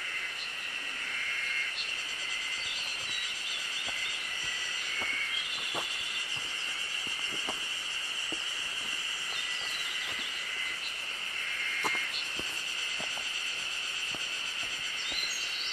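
Wild birds giving short repeated calls over a steady, high insect drone.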